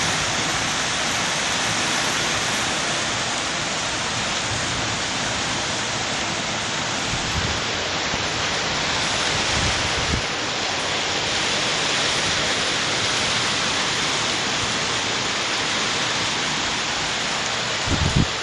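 Heavy tropical rain pouring down in a steady, dense hiss, driven by strong wind. A few brief low thumps break through, the loudest near the end.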